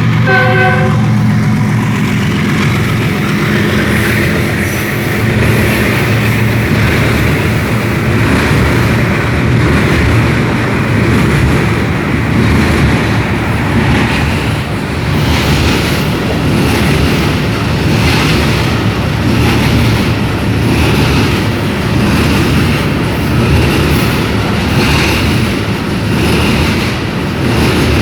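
Freight train arriving: a brief locomotive horn note right at the start, then the steady rumble of the train rolling past. From about halfway in, the wagons clatter rhythmically over the rail joints, about once a second.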